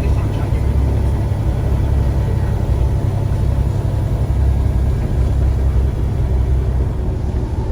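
Scania CN94UA single-deck bus's diesel engine running with a steady low rumble, mixed with road and body noise, heard from inside the bus.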